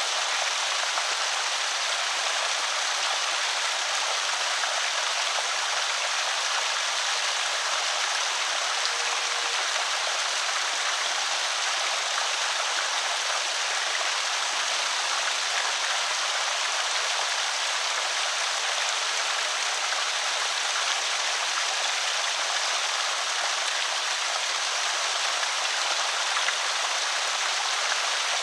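Water pouring over a small creek spillway, a steady splashing rush.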